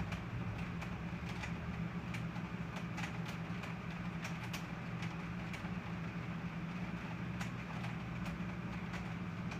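Rain falling steadily during a thunderstorm, with scattered sharp ticks of drops, over a steady low hum.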